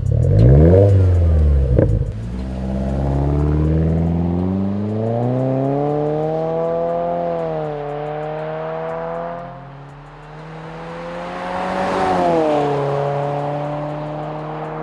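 Subaru Ascent's turbocharged 2.4-litre flat-four heard through a muffled stainless-steel catback exhaust, revving. It blips up and down twice quickly at first, then climbs and falls in pitch more slowly, fades briefly about ten seconds in, rises again and settles to a steadier note near the end.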